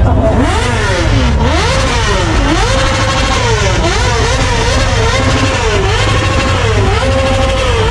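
Car engine revved over and over, its pitch climbing and dropping about once a second over a heavy low rumble.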